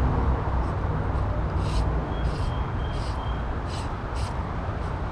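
Steady rushing noise, strongest in the low end, with half a dozen short splashes scattered through it, as of wading through a creek.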